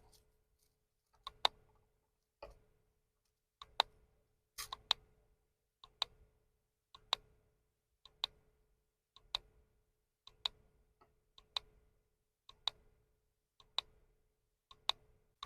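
NE555 raindrop-sound kit playing through its small speaker: an even series of short drip-like clicks, each a faint tick followed by a louder one, about one drip every 1.1 seconds, over a faint steady tone.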